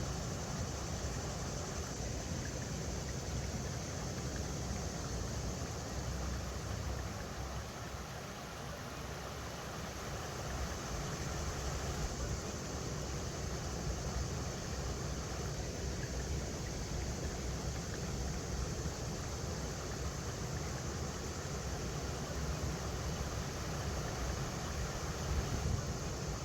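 River water flowing over rocks: a steady, even rush, under a low, fluctuating rumble.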